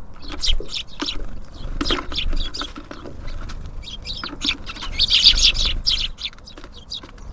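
Small songbirds chirping, many short calls overlapping, busiest about five seconds in, with a few scattered sharp clicks.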